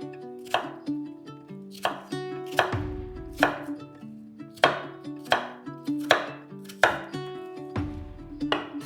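Knife chopping apples on a cutting board: sharp, fairly even strokes about every three-quarters of a second, over background music of held plucked-string notes.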